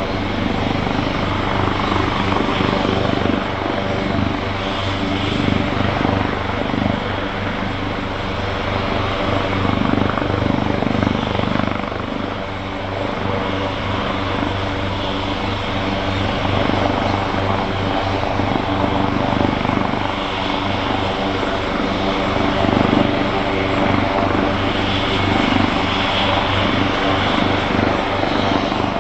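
AgustaWestland AW139 helicopter running steadily: the whine of its two Pratt & Whitney Canada PT6C turboshaft engines over the beat of its five-bladed main rotor, loud and unchanging.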